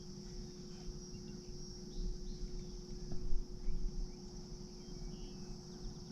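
Steady high-pitched drone of a chorus of crickets and other insects, over an irregular low rumble and a few faint knocks.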